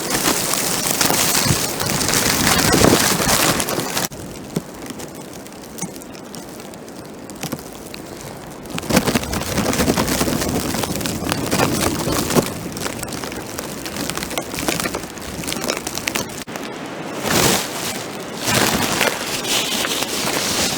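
Plastic bag wrapped over a camera crinkling and rubbing against its microphone, a crackly, rain-like hiss that swells and fades unevenly, with louder stretches at the start, in the middle and in short surges near the end.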